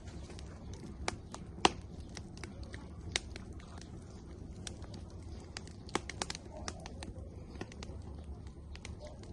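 Firewood burning in an outdoor grill, crackling with irregular sharp pops, the loudest about one and a half seconds in, over a steady low rush of the flames.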